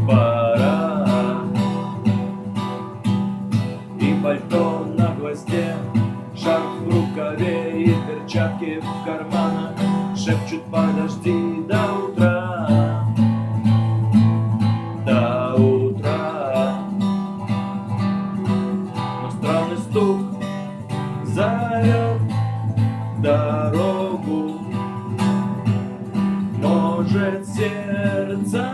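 Acoustic guitar strummed in a steady rhythm, with sharp percussive strokes (the muted 'knock' of the strumming technique) marking the beat, and a melody that bends in pitch above it.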